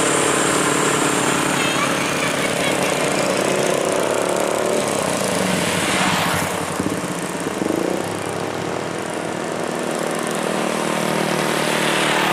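Heavy diesel trucks running up a hill on a highway, engines labouring under load with tyre and road noise; one vehicle passes close about six seconds in, after which the sound eases slightly.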